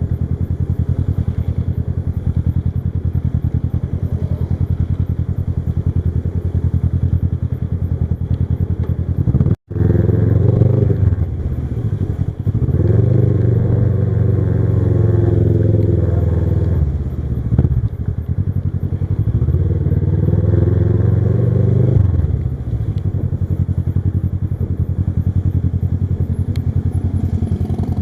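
Kawasaki Versys 650 parallel-twin engine running on the move. After a brief cut about a third of the way in, the revs climb and fall back several times before settling to a steadier note.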